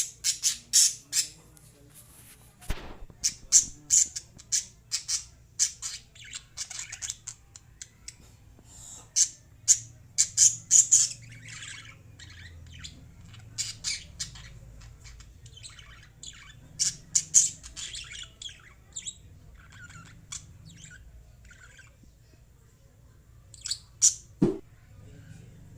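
Lovebirds chirping and squawking in short, sharp, high-pitched bursts, coming in clusters with brief pauses between them.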